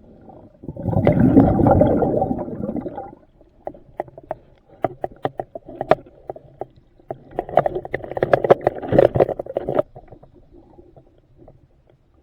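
Underwater hull-cleaning sounds: a diver's exhaled regulator bubbles rumble for about two seconds, then comes a run of sharp clicks and scraping from the cleaning tool on the hull, densest near the end.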